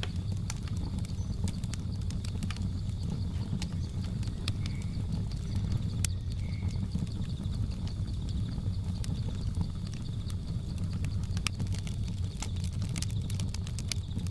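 Wood fire crackling with irregular sharp pops over a steady low rumble of the flames, under a steady high drone of jungle insects. Two short faint chirps come about five and six and a half seconds in.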